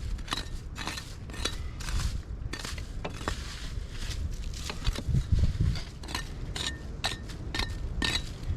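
Frozen ashes being scraped and chipped out of a metal campfire ring: a quick, irregular run of scraping, clinking strokes, with a few heavier thuds about five seconds in.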